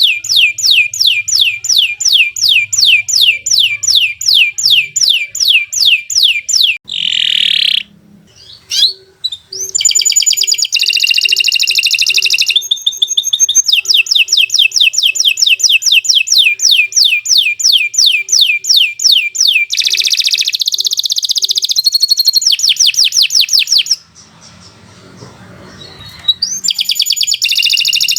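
Domestic canary singing: long rolling trills of rapidly repeated high notes, broken by shorter varied phrases, with a pause of about two seconds near the end before the trills start again.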